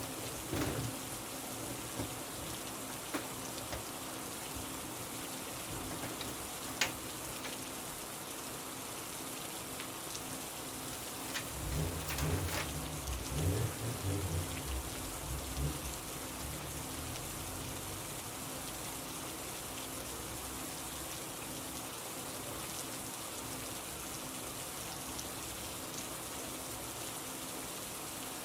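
Steady rain, with a low rumble of thunder rolling for a few seconds about halfway through and a few sharp ticks before it.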